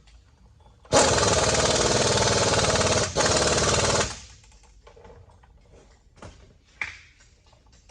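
Pneumatic air tool hammering hard for about three seconds, with a split-second break partway through, on truck front-suspension hardware. A couple of light metal clinks follow near the end.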